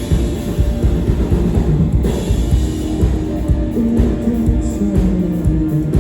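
A live rock band playing loud: a drum kit hitting steadily under electric guitar and bass.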